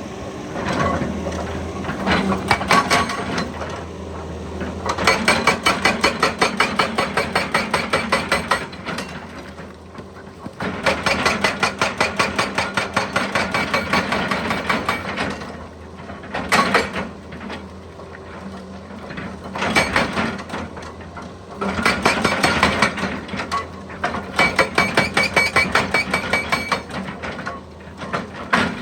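Excavator's hydraulic breaker hammering in several bursts of rapid, evenly repeated blows a few seconds each, with short pauses between, over the steady hum of the machine's engine.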